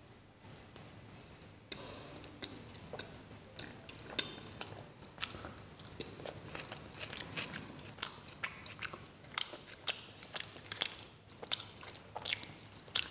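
A person chewing paratha dipped in chutney, with biting and wet mouth clicks that come faster and louder in the second half.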